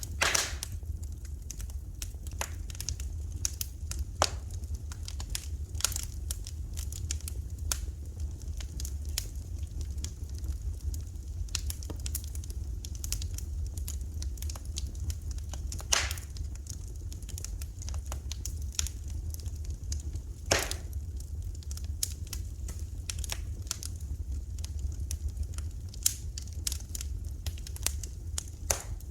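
Wood fire in a fireplace crackling, with irregular sharp pops and snaps, a few of them louder, over a steady low rumble.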